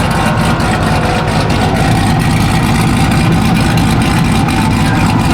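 A truck's engine running loud and steady.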